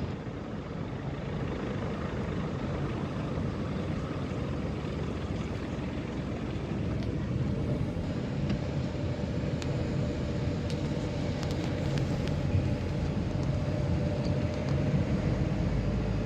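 A vehicle running steadily along a road, heard from aboard it: an even low rumble of engine and tyres.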